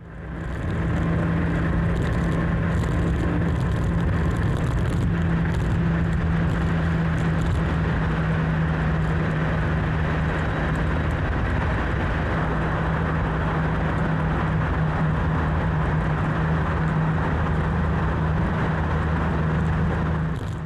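Motorcycle engine running at a steady cruising speed, its even hum mixed with road and wind noise, heard while riding through a road tunnel.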